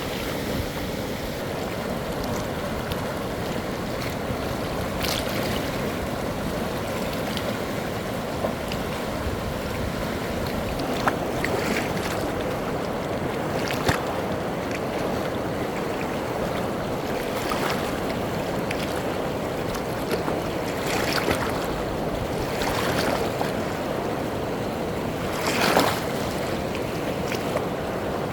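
Floodwater rushing down a wadi in spate after heavy rain: a steady rush of water, with a few short louder moments, the loudest near the end.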